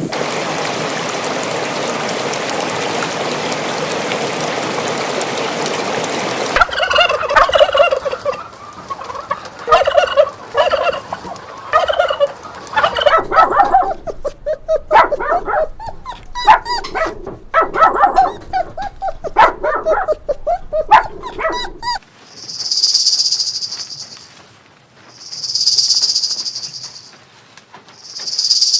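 Animal sounds in three parts. First a steady hiss lasts about six seconds. Then comes a long run of rapid, stuttering bird-like calls. Near the end, high buzzing pulses swell and fade about every three seconds, like an insect.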